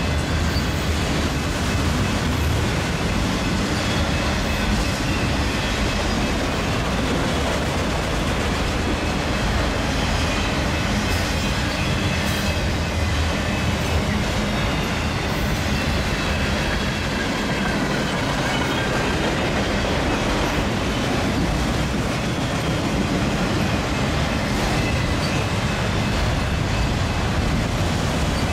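A long freight train of autorack cars rolling past at a steady pace, with a continuous low rumble of wheels on rail that holds evenly throughout.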